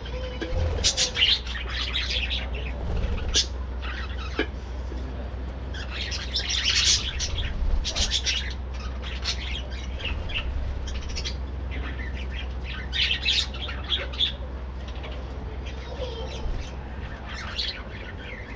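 A colony of budgerigars chirping and chattering together, many short calls overlapping with occasional squawks, over a steady low hum.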